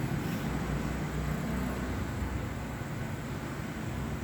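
Steady low background rumble with a faint hum, without distinct knocks or clicks.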